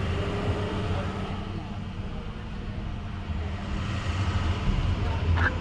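Steady low rumble of vehicles, with faint voices in the background and a couple of light clicks near the end.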